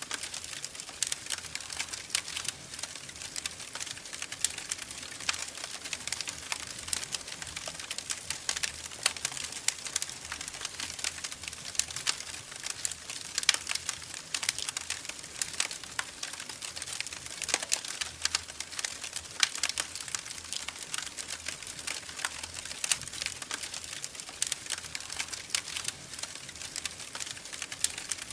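Wood fire crackling in a fireplace: dense, irregular small pops and snaps over a soft steady hiss.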